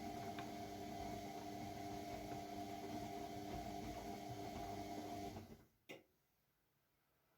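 AEG Lavamat W 1450 washing machine running with a steady motor whine and hum. It stops abruptly about five and a half seconds in, then a single click, then near silence.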